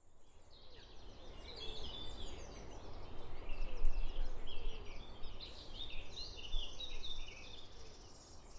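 Small birds singing and chirping in a dense mix of quick high notes that starts about a second in and is busiest around the middle, over a low steady rumble.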